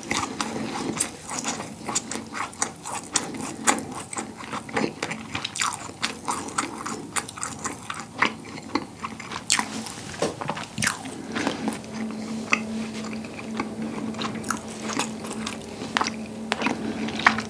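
Close-miked chewing of a rasgulla, a spongy cheese ball from a syrup tin squeezed of part of its syrup: a dense run of small mouth clicks and smacks. A steady low hum joins in over the last few seconds.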